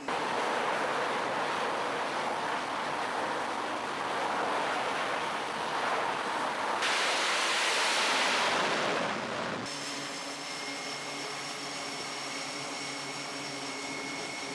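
Loud steady rushing noise that turns brighter and hissier about seven seconds in, then cuts off abruptly about ten seconds in to a quieter steady machine hum with a high-pitched whine.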